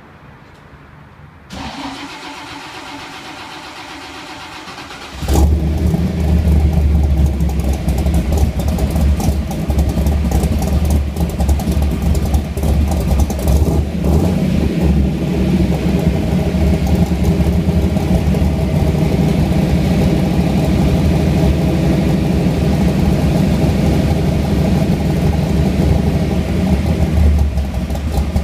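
1967 Ford Mustang's engine being cranked by the starter for a few seconds, then catching about five seconds in and settling into a loud, steady idle with a deep exhaust note.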